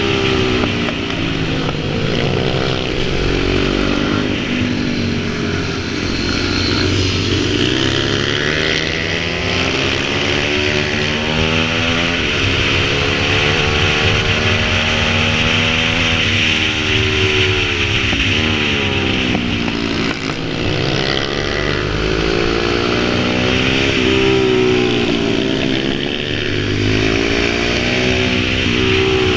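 Pit bike's small single-cylinder engine running under load, its engine note rising and falling over and over with the throttle and as it rides past.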